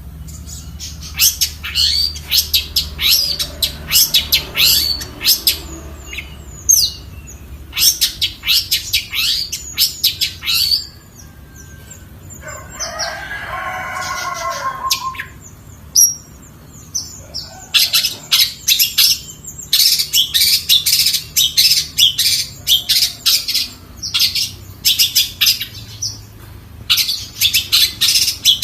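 Long-tailed shrike (cendet) singing: loud bursts of rapid, sharp high chattering notes. About eleven seconds in the sharp notes pause and a lower, more tuneful warbling phrase is heard for a few seconds before the chattering returns.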